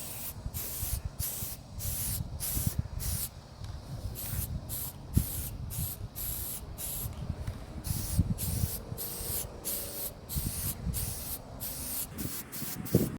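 Aerosol spray-paint can hissing in short, quick spurts, two or three a second, as the metal cart is sprayed, with a low rumble underneath.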